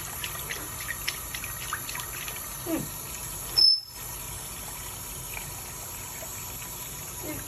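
Kitchen sink tap running in a steady stream, with small clicks and splashes in the first couple of seconds. A brief, sharp high tone cuts in about three and a half seconds in, the loudest moment, followed by a split-second drop to silence.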